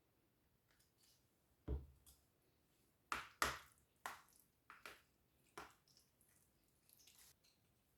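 A few separate knocks and clicks of kitchen utensils and containers being handled, the loudest pair about three seconds in, one duller thump a little before them.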